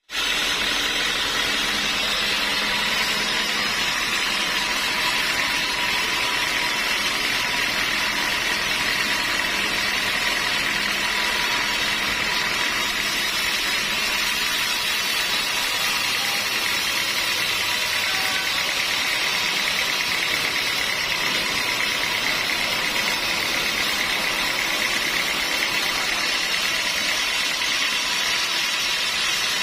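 Sawmill machinery running continuously, a steady, even mechanical noise with a faint constant whine and no breaks.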